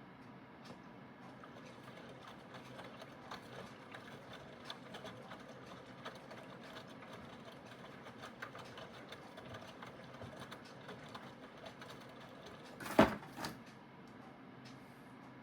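Aidoo 1 kg mini washing machine with a direct-drive motor running its wash cycle: a steady mechanical hum with small irregular clicks. A sharp knock about thirteen seconds in, followed by a lighter one.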